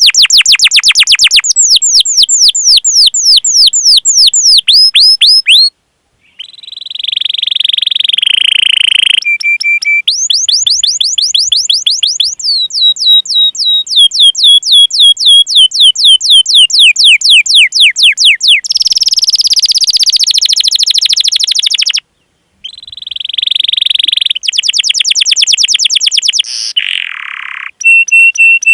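Canary singing loudly in a long, fast song: runs of rapid, high down-sweeping 'cuit cuit' notes, several a second, alternating with buzzy rolling trills, broken by two brief pauses. This kind of song is played as a tutor recording to get young or silent canaries singing.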